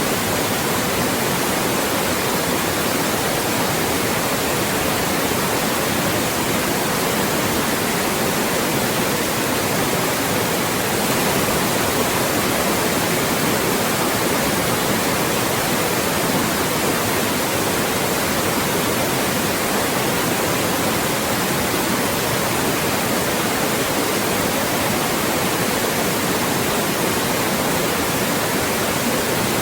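Loud, steady white noise: an even hiss across all pitches with no change, played as a masking sound to block out voices.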